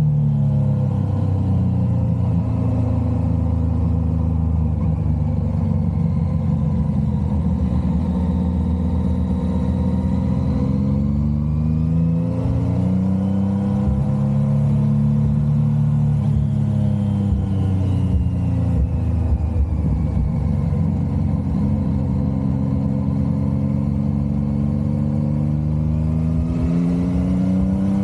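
A vehicle engine running on the move. Its pitch rises and falls smoothly over several seconds at a time as the throttle opens and closes.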